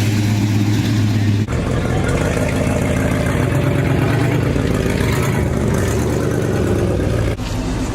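Car engines running and pulling away as show cars leave, the sound changing abruptly from one engine to another about a second and a half in and again near the end.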